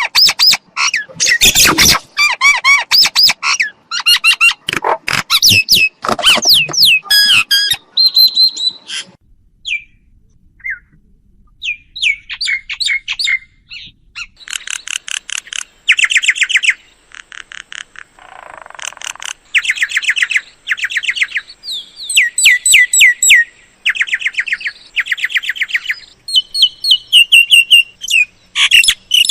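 Mynas calling: quick runs of harsh chattering notes mixed with short whistles, thinning out to a few scattered notes for a couple of seconds about ten seconds in.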